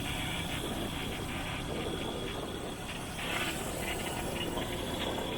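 Motorbike running along a road, with a steady rumble of engine, wind and road noise.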